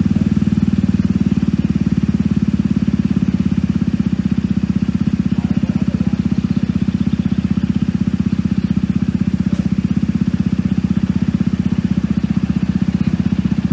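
Level crossing warning alarm sounding continuously: a loud, low tone that pulses rapidly and evenly without a break.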